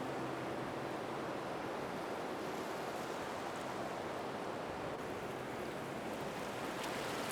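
Steady rushing noise of falling water, even and unbroken, with no distinct strokes or tones.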